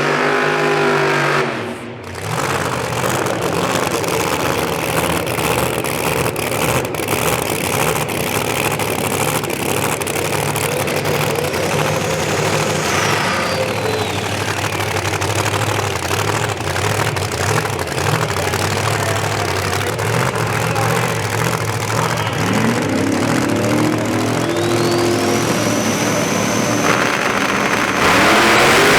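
Drag racing car engines running, with an engine revving up and a high whine that rises in pitch twice, once about twelve seconds in and again past twenty seconds.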